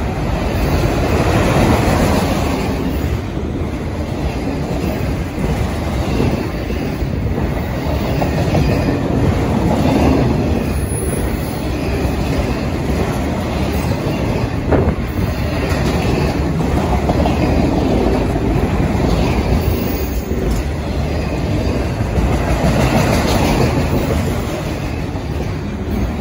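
Autorack freight cars rolling past: continuous noise of steel wheels on rail that swells and eases gently as the cars go by, with one sharp knock about fifteen seconds in.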